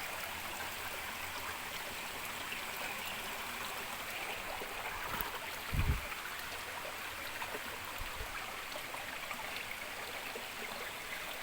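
Waterfall stream rushing steadily over rocks. A brief low thump a little past halfway through.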